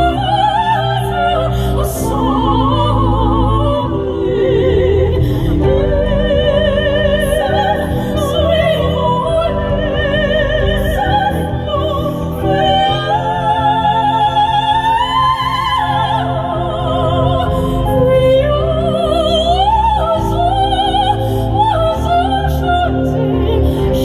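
Two classically trained sopranos singing an operatic duet with wide vibrato on long held notes, over an instrumental backing with a steady bass line.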